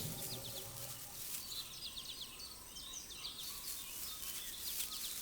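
Small birds chirping over a faint outdoor ambience: many short, high chirps scattered throughout.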